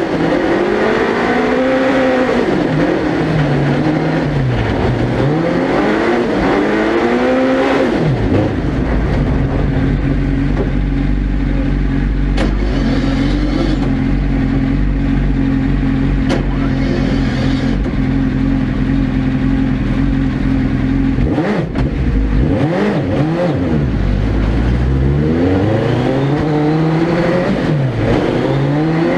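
Suzuki Hayabusa 1300cc inline-four engine in a Proto GIAND ice-racing car, heard onboard, revving up and down repeatedly. About eight seconds in it settles to one steady pitch for roughly twelve seconds, then goes back to rising and falling revs near the end.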